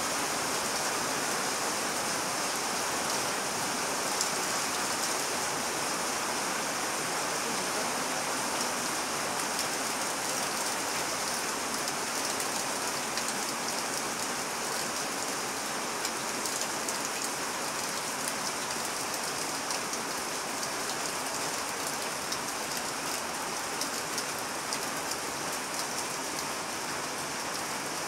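Steady rain falling, an even hiss with the odd sharper drop hit standing out.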